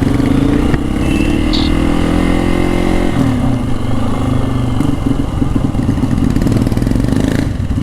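Hero Xpulse 200 4V's single-cylinder engine through an aftermarket stainless-steel full-system exhaust, pulling away under acceleration. Its note climbs for about three seconds, then breaks off and runs on rougher and steadier.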